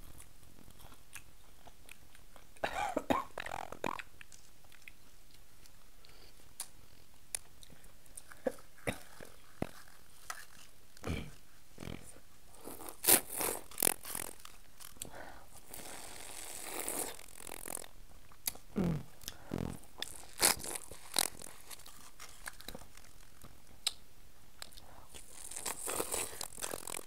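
Close-up eating sounds of a king crab mukbang: chewing, with scattered crunches, cracks and clicks as crab is picked apart and bitten. The bursts come and go, with the loudest cluster about halfway through.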